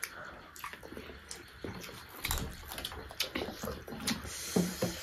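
Close-miked eating sounds: wet chewing and lip-smacking with irregular sharp clicks, as chicken gizzard and rice are eaten by hand. A few short low hums come near the end.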